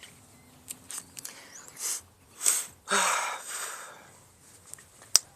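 A person's breath noises close to the microphone: a quick breath, then a longer exhale that fades out, with a few small clicks and handling noises around them.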